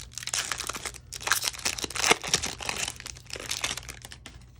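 Foil baseball card pack wrapper being torn open and crinkled in the hands, a dense crackling that stops shortly before the end.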